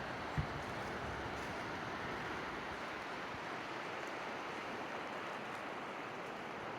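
Steady rushing of a mountain creek's flowing water. A single brief low thump about half a second in.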